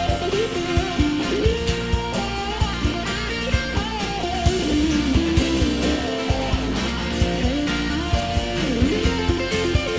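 Rock band playing an instrumental passage: a lead guitar melody with bent notes over bass and a steady drum beat.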